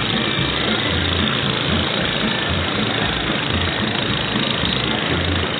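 Motorboat engines running steadily, a dense continuous engine noise with an uneven low throb.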